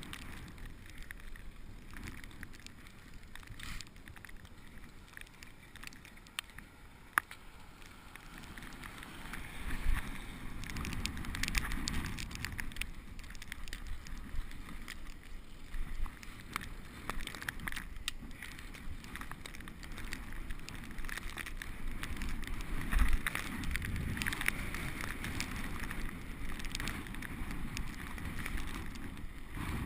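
Bicycle being ridden over a snowy road: steady tyre and road noise with scattered clicks and rattles from the bike, growing louder about ten seconds in and again past twenty seconds.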